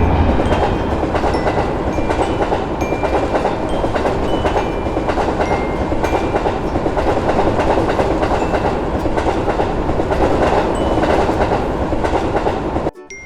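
Passenger train rolling by on the rails: a steady rumble with the clickety-clack of wheels over rail joints, which cuts off abruptly near the end and starts again a moment later.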